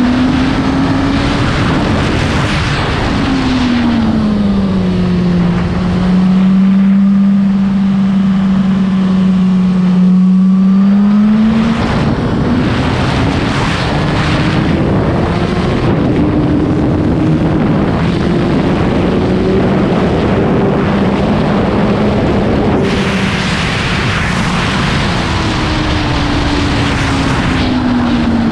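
Suzuki GSX-R1000 K7's inline-four engine running at speed on track. It eases off about four seconds in, holds a steady note for several seconds, then pulls up through the gears and falls away again near the end as the bike slows.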